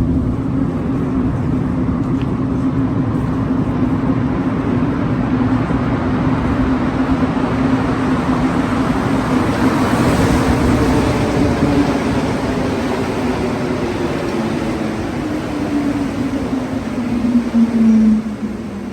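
A rubber-tyred Montreal Metro train pulling into the station. Its motor whine slowly falls in pitch as it brakes, the rolling noise swells about halfway through, and the sound drops away suddenly near the end as the train comes to a stop.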